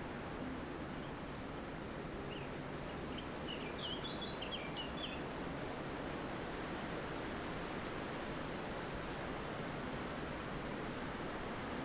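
Steady wind rushing through forest trees, with a bird twittering briefly: a quick run of short chirps about two to five seconds in.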